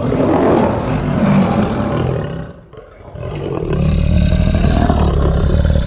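Lion roaring: two long, low roars with a short pause between them a little before halfway.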